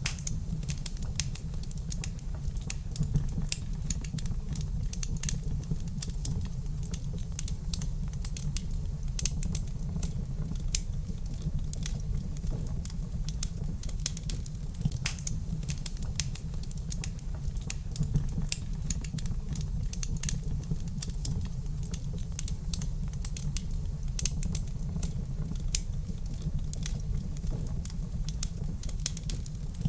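Wood fire crackling in a fireplace: constant irregular small pops and snaps over a steady low rumble of the flames.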